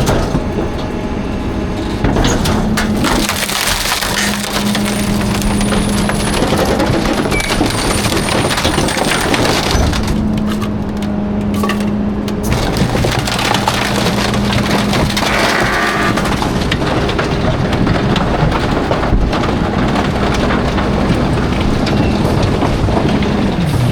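Garbage truck compactor crushing and cracking a load of bulky trash, with splintering and snapping all through, over a steady low hum from the truck's engine and hydraulics that drops out and returns several times.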